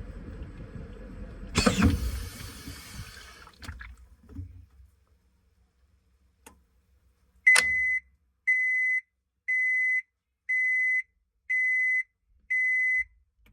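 A washing machine coming to the end of its cycle. Its running noise rises to a loud rush and clatter about a second and a half in, then dies away. After a click, the machine gives six even beeps, about one a second, signalling that the cycle is finished.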